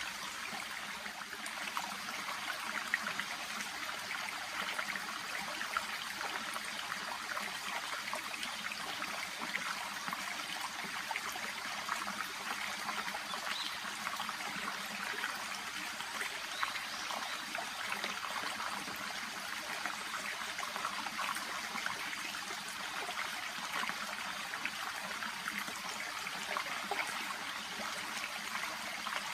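Shallow brook babbling steadily, a continuous trickle and burble of water flowing past water plants.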